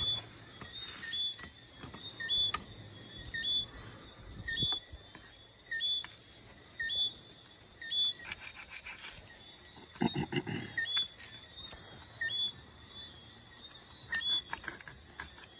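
Night-time animal chorus: a short chirping call repeats about once a second over a steady high insect drone. A few sharp clicks and a brief louder scrape come through about ten seconds in.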